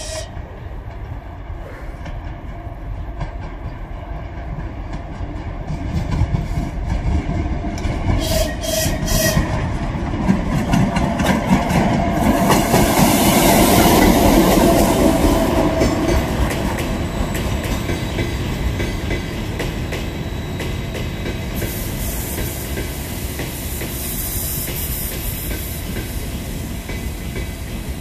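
A train rolling through the station with its wheels clattering over the rail joints, building to its loudest about halfway through and then easing off, with bursts of high hiss around the middle and again near the end.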